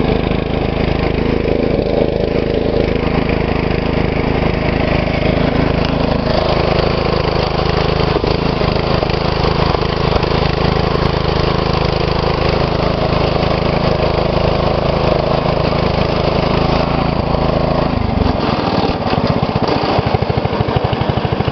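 2012 MTD lawn tractor's engine running steadily at full throttle, then settling to a slower, choppier beat about eighteen seconds in.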